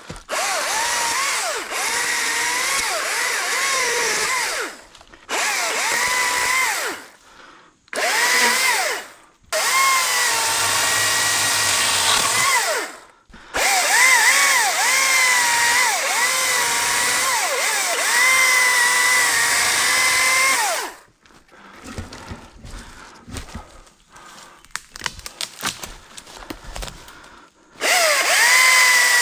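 ECHO DCS-2500T battery top-handle chainsaw cutting in a string of short bursts, its motor whine sagging in pitch and recovering as the chain loads in the wood. After about 21 seconds the saw stops for several seconds of light knocking and rustling, then starts cutting again near the end.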